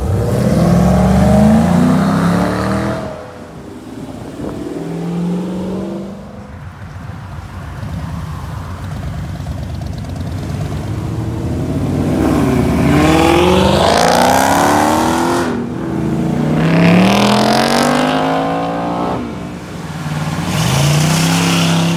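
Muscle cars pulling away one after another, among them a Chevrolet Camaro ZL1 1LE, a Dodge Charger and a classic Chevy Nova. Each engine revs up hard with rising pitch and fades as the car leaves, about five times in all.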